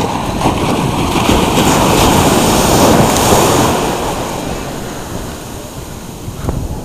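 Ocean surf on a beach: a wave swells to a peak about three seconds in and then washes out, with wind buffeting the microphone.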